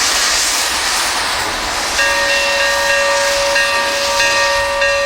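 Steam locomotive venting steam with a loud steady hiss. About two seconds in, its steam whistle joins with one long, steady chord-like blast that is still sounding at the end.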